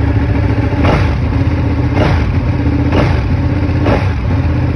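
Ducati 959 Panigale's 955 cc L-twin engine on its stock exhaust, idling shortly after a cold start and blipped four times, about a second apart.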